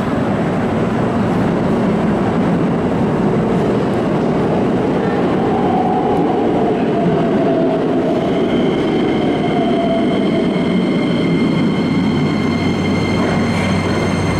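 Keikyu electric train arriving at an underground platform and slowing to a stop. Its running noise is steady, with a tone that falls slowly in pitch as it brakes, and several high steady tones join in from about eight seconds in as it draws up to the stop.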